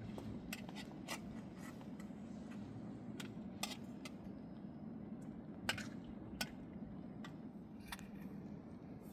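Scattered light clicks and taps, about a dozen, irregularly spaced, over a steady low hum.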